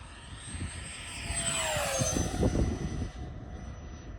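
Freewing Zeus RC jet's 90mm 12-blade electric ducted fan whining past in a fast pass, its pitch dropping as it goes by and loudest about two seconds in.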